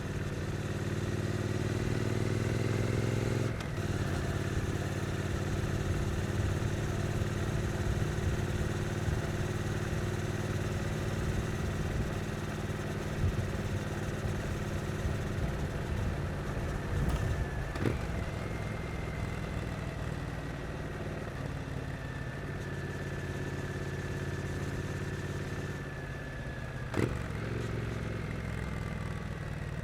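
2022 Triumph Street Twin's 900 cc parallel-twin engine under way at low city speed: it climbs in pitch for the first few seconds, changes abruptly about three and a half seconds in, as at a gear change, then runs fairly steadily. Two brief sharp knocks come about eighteen and twenty-seven seconds in.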